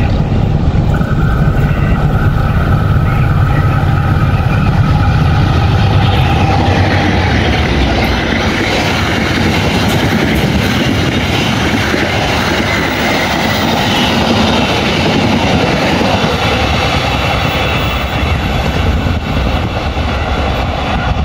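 An express passenger train passing at speed behind a diesel locomotive. The locomotive's engine drones low as it approaches and goes by, with a steady higher tone over the first several seconds. Then the carriages' wheels rattle and clatter along the rails, easing slightly near the end as the train draws away.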